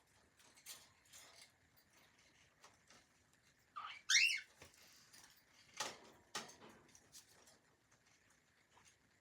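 Cockatiel giving one short chirp that glides in pitch, about four seconds in, the loudest sound here. Scattered soft clicks and scratches come before and after it.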